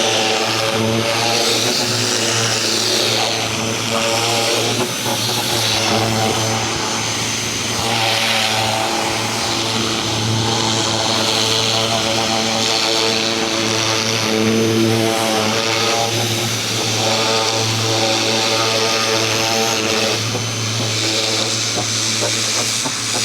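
Ryobi 2000 PSI 1.2 GPM electric pressure washer running with a steady hum while its water jet sprays against a fence, the hiss of the spray swelling and fading as the wand moves.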